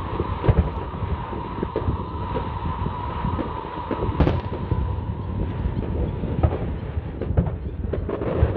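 Aerial fireworks going off in quick, irregular succession: many sharp bangs and crackles over a continuous low rumble.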